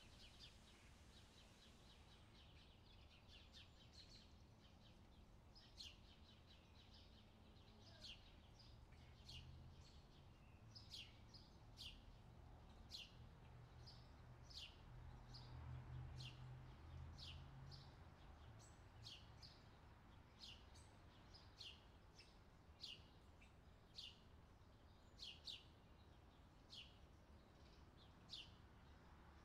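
A small bird calling faintly with short, sharp, falling chirps: a quick flurry at first, then about one a second. Under them is a faint low rumble.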